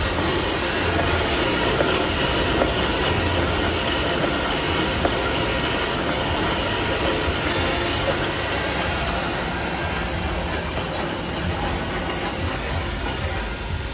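Small automatic band saw toilet paper cutting machine running, a steady mechanical noise with a low hum and faint scattered ticks.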